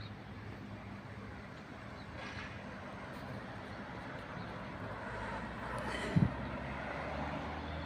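A vehicle engine running steadily, growing a little louder in the last few seconds, with one brief low thud about six seconds in.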